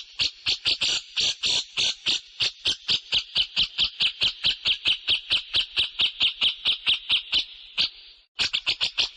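A songbird giving a fast, even series of short, sharp chirps, about five a second, with a brief break near the end.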